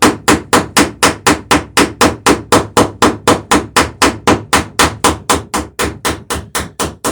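Hammer peening a copper boat rivet with rapid, even strikes, about four a second, spreading the copper into a rounded head against a backing block on the other side of the plank.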